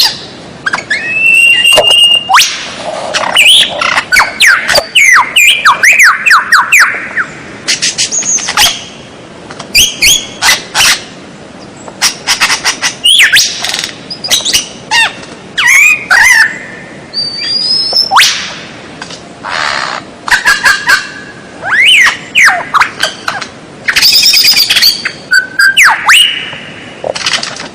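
White-rumped shama (murai batu) singing a long, varied song of quick phrases: clear whistles, rising and falling slurs, sharp clicks and fast trills, with short pauses between phrases.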